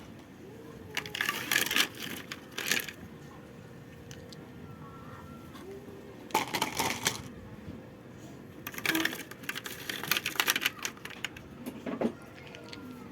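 Spells of clattering and clinking from small hard objects being handled, in three or four separate bursts with short gaps between.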